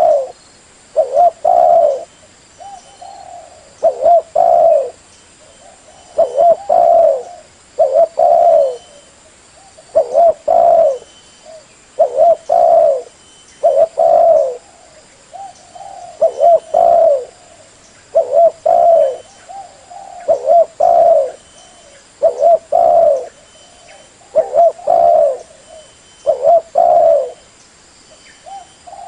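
Spotted dove (tekukur) cooing: short phrases of a few low coos repeated about every two seconds. It is the spotted dove's call used to lure other spotted doves.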